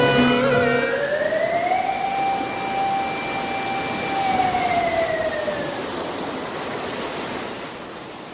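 A siren-like tone over a steady hiss: it rises for about two seconds, holds, then falls and dies away while the hiss slowly fades out. Music cuts out about a second in.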